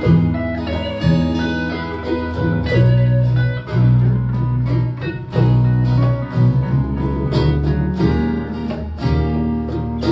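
Guitar playing an instrumental break in a song, with low bass notes changing every second or so under picked higher notes.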